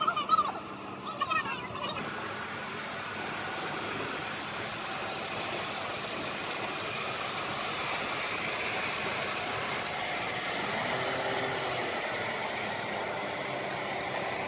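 Tractor engine running steadily, growing a little louder from about two seconds in. A few brief high wavering calls sound in the first two seconds.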